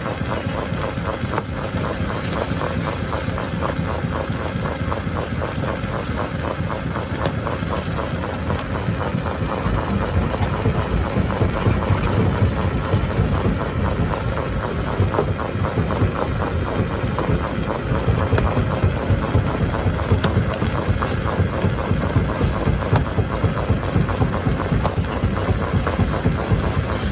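Stone crusher machine running, a steady heavy mechanical rumble with a rapid low throbbing, getting somewhat louder about ten seconds in, with a few sharp clicks over it.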